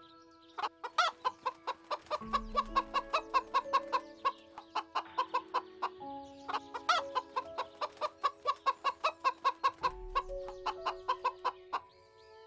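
Chicken clucking in a fast run of short clucks, about four or five a second, in two bouts that each open with a louder call. Calm music with held notes plays underneath.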